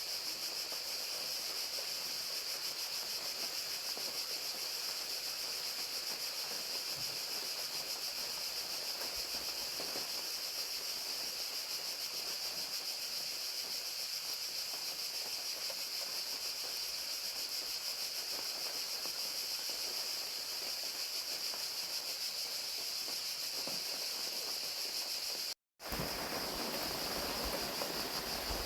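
Crickets trilling in a dense, unbroken high-pitched chorus over a steady hiss of falling rain. About twenty-five seconds in, the sound cuts out for a split second, and after it the rain hiss is stronger and the crickets less distinct.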